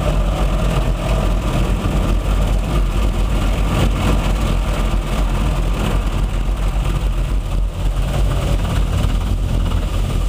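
Automatic car wash spraying the car with jets of hot water during its hot-water wash cycle, heard from inside the car: a loud, steady spraying hiss over a low rumble.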